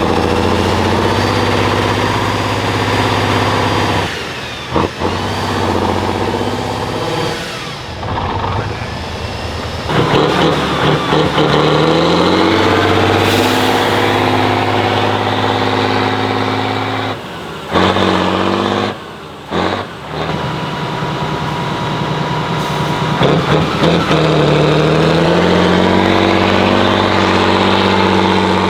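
Heavy off-road trial truck engine labouring and revving under load, its pitch climbing and falling in steps, with a few abrupt short breaks where the sound cuts away.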